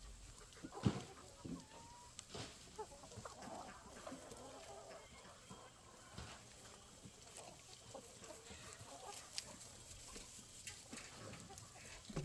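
A flock of chickens clucking softly, with scattered sharp knocks and clicks; the loudest knock comes about a second in.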